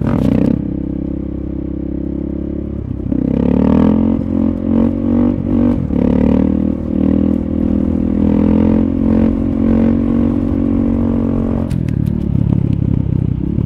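KTM 640 supermoto's single-cylinder four-stroke engine running under throttle on the move. The pitch lifts about three seconds in and then holds fairly steady, before turning rougher and lower near the end.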